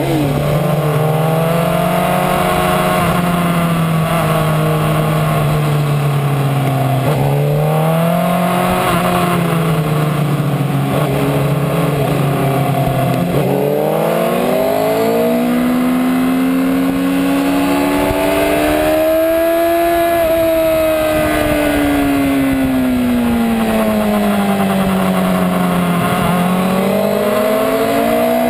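Sportbike engine heard from on board while riding on a race track. The engine holds a fairly steady low note for about the first half, then its pitch rises and falls slowly and repeatedly as the throttle opens and closes through the corners.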